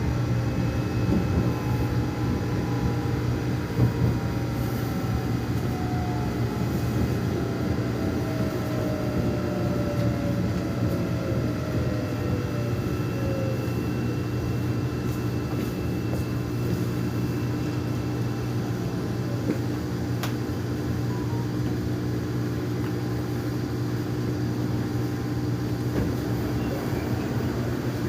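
Steady rumble and hum of a Korean subway train heard from inside the car while it runs between stations. Over the first dozen seconds a motor whine glides down in pitch.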